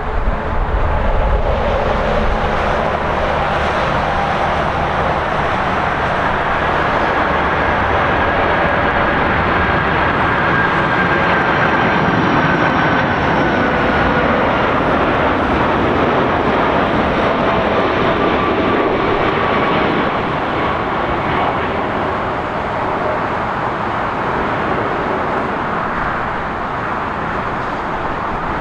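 Jet airliner's engines running loud and steady as it passes, with a faint high whine that slowly falls in pitch.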